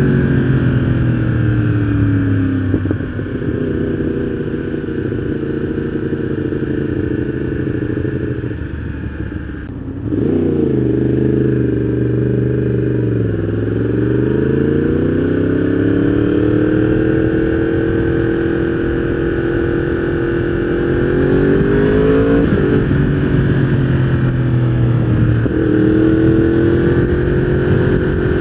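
Yamaha R1 inline-four with a full exhaust system, under way: the engine's pitch falls and rises with the throttle, then climbs steadily and drops sharply twice, about three seconds apart, as it shifts up through the gears.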